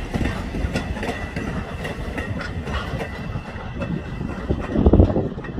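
Wooden passenger coaches of a steam-hauled train rolling past, their wheels clicking over the rail joints, with a few louder low thumps near the end.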